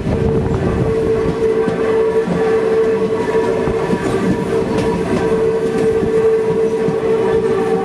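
Passenger train running, a dense rumble with a steady two-note tone held without a break.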